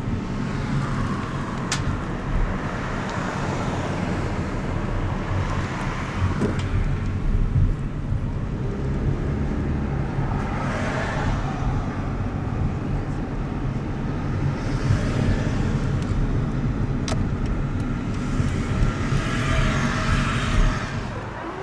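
Steady low rumble of a moving vehicle, with a rushing noise that swells and fades every few seconds.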